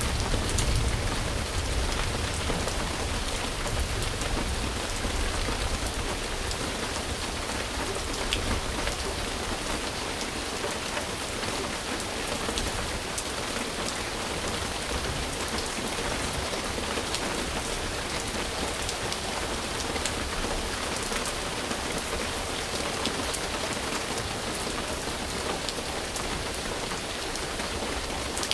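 Steady, dense rain falling on a surface, with individual drops ticking through the hiss. A low rumble sits under the rain in the first couple of seconds and fades.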